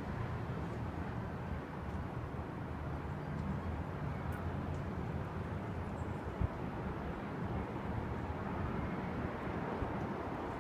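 Steady low outdoor rumble with no clear single source, and one short knock about six and a half seconds in.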